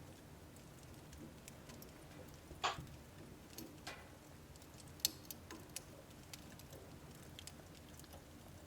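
Wood burning in a household wood stove: scattered crackles and sharp pops from the logs, the loudest about three and five seconds in, over a low steady background rumble.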